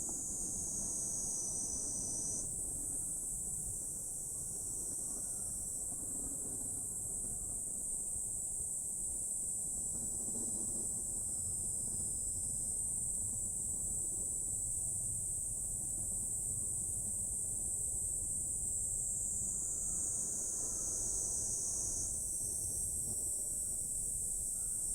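Steady high-pitched insect chorus, shifting slightly in pitch a couple of seconds in and again near the end, over a faint low rumble.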